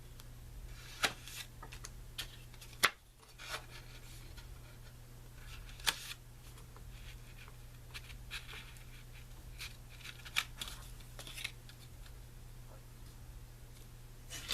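Sheets of cardstock and paper handled and shifted on a table: faint rustles with a few sharp taps and clicks scattered through, over a steady low hum.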